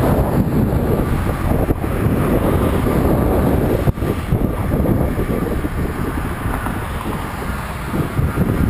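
Wind rushing and buffeting over the microphone of a camera on a moving bicycle, a loud, steady rough noise heavy in the low end.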